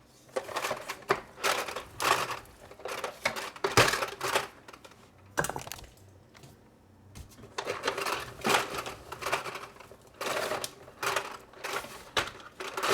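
Hard plastic toy truck carry case and toy cars being handled: rapid clicks, knocks and rattles of plastic parts, in two spells with a pause of about two seconds in the middle.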